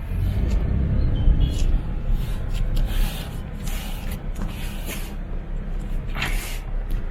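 Car driving slowly over uneven ground, a steady low rumble of engine and tyres heard from inside the cabin, with several short noisy rushes along the way.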